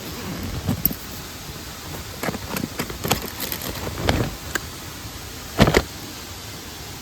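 Steady rush of a nearby mountain stream and waterfall, with a scatter of short knocks and rustles from gear being handled; the loudest is a quick double thump about three-quarters of the way through.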